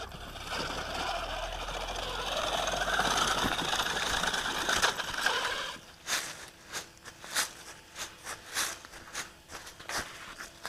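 1/8-scale RC monster truck driving over rough ground: a dense run of drive and tyre noise that grows louder and cuts off at about six seconds. Then a string of sharp crunches and clicks, about two a second, over a faint steady hum.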